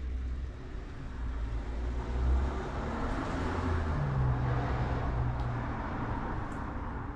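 A car driving past on the street: engine and tyre noise that swells over a few seconds and then eases off.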